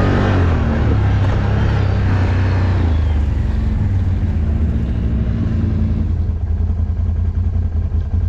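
ATV engine running steadily through mud, then settling to a lower, choppier note about six seconds in.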